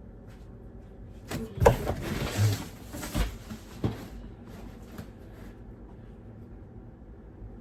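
Handling noises: a sharp knock, about a second of rustling, then a thump and a click, with a few faint clicks after.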